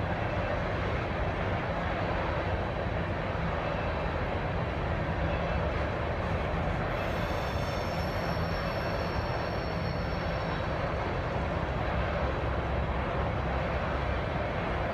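Freight train of crude oil tank cars rolling steadily past, a continuous heavy rumble of wheels on rail. A faint high squeal comes in about seven seconds in and lasts some three seconds.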